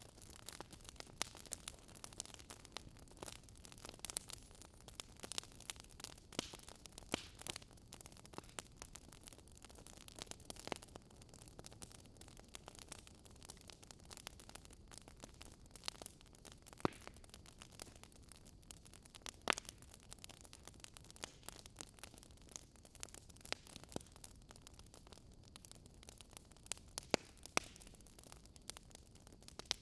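Fireplace log fire crackling: irregular sharp pops and snaps over a low steady hiss.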